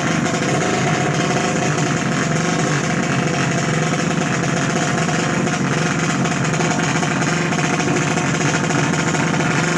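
Racing motorcycle engine idling steadily at an even pitch.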